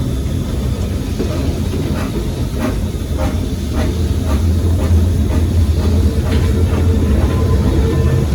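A train running on the rails of a heritage steam railway: a steady low rumble with a scattering of sharp clicks and squeals from the wheels and track.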